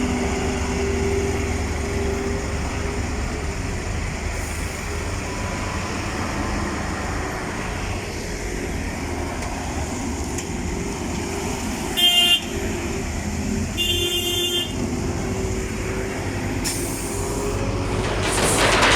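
Heavy diesel lorry engine running with a steady low drone, and two short vehicle-horn blasts a couple of seconds apart.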